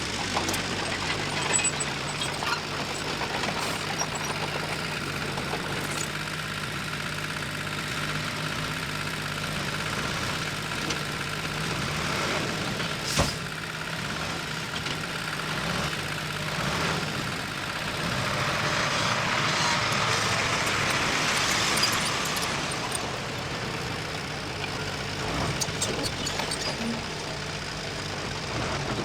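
Diesel engine of heavy earthmoving machinery running steadily, with scattered clanks, one sharp knock about halfway, and a stretch of hiss about two-thirds through.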